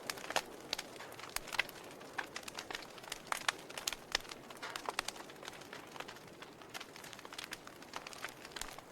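Wood fire burning in a fireplace: irregular crackles and sharp pops, several a second, over a soft hiss of the flames.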